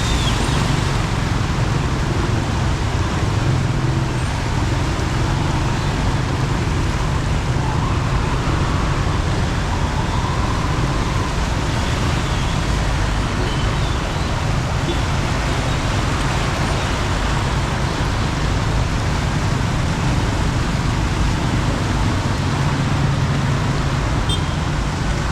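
Steady, loud noise of heavy rain mixed with road traffic, with no let-up.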